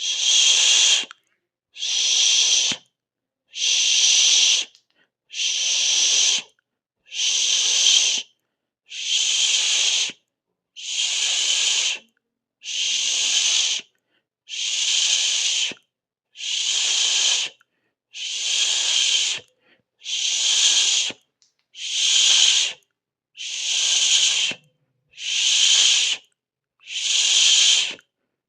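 A person hissing through the teeth, a drawn-out 'sss', repeated steadily, each hiss lasting about a second, with a short silence before the next. There are about fifteen hisses, one roughly every two seconds.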